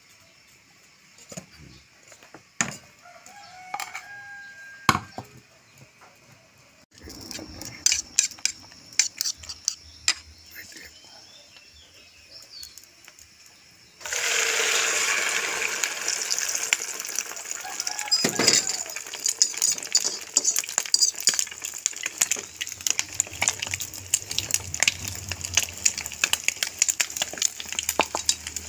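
Scattered knocks and clinks of kitchenware, then about halfway through a beaten egg and dulong (silverfish) mixture hits hot oil in a frying pan and sizzles loudly, crackling continuously.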